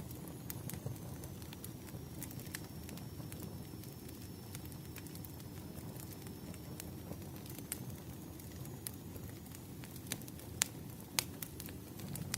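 Wood fire crackling: a low steady rumble with scattered sharp pops and snaps, two louder pops near the end.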